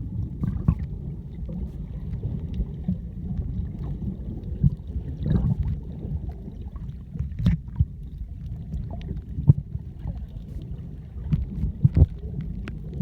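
Small boat out on the sea: a continuous low, uneven rumble, with a sharp knock or slap now and then, a few seconds apart.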